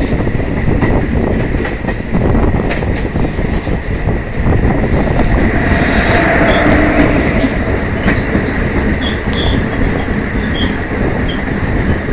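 Steady loud rumble of a moving vehicle, with brief metallic squeals and squeaks around the middle and later on.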